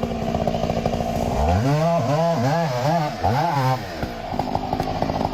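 Two-stroke chainsaw idling, then revved in about five quick blips of the throttle over a couple of seconds, then dropping back to idle.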